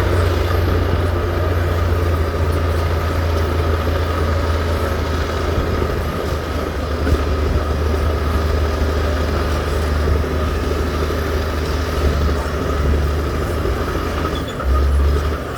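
Heavy diesel engine of earthmoving equipment running steadily under load, a deep continuous drone with a brief change in level near the end.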